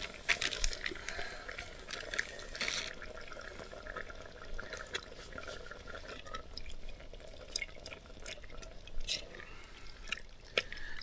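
A pan of onions, peppers and curry paste bubbling and sizzling over a campfire with prawns just added, with many short sharp crackles and clicks scattered through it.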